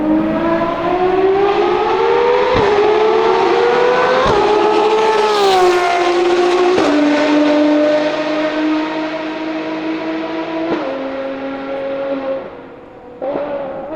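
Ferrari FXX K Evo's V12 engine at full throttle, its pitch climbing and breaking sharply at two quick upshifts, then dropping and holding steady with one more step down. It fades near the end, when another engine note comes in.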